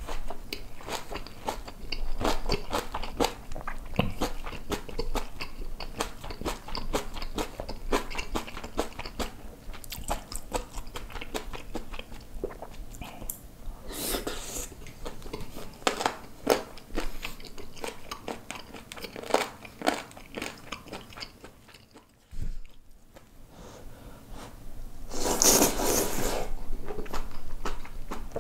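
Close-up sound of a person chewing and biting mouthfuls of spicy braised kimchi with pork belly and rice, with many quick wet mouth clicks. There are longer, louder noisy stretches about 14 seconds in and again near the end, as more food goes into the mouth from the chopsticks.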